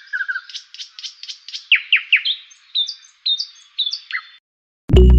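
Songbird chirping in a quick series of short calls and downward-sliding notes, which stops about a second before the end. Music with a strong bass comes in just before the end.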